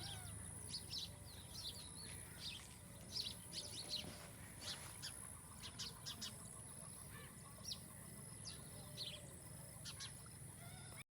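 Several small birds chirping outdoors in many short, quick high calls, over a steady low hum. All sound cuts off suddenly near the end.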